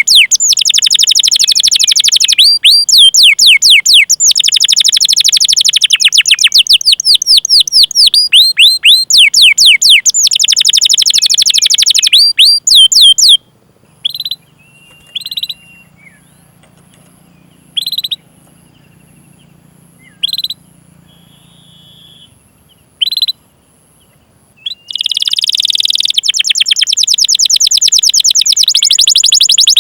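Domestic canary singing long rolling runs of rapid, repeated high 'cuit cuit' notes, each note sliding downward in pitch. Partway through, the runs break off for about ten seconds, leaving only a few single chirps, and then the fast roll starts again near the end.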